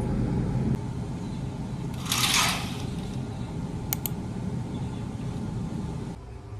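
Indoor room noise with a brief hissing rustle about two seconds in and two sharp clicks about four seconds in, then a sudden drop to a quieter background near the end.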